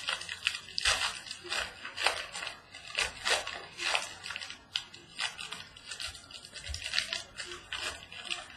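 A trading card pack's wrapper being torn open and crinkled by hand: a run of irregular crackling rustles.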